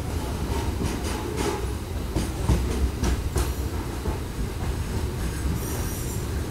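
Passenger train running on the rails: a steady low rumble with a run of wheel clicks over rail joints in the first half, and a brief high squeal near the end.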